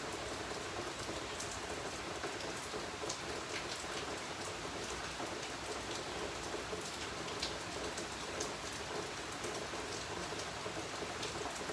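Steady rain falling, with scattered single drops ticking on a hard surface.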